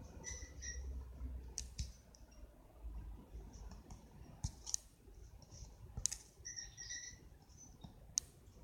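Scattered sharp clicks and taps with two short bursts of high squeaking, one near the start and one about two-thirds through: small sounds of colouring tools being handled and worked.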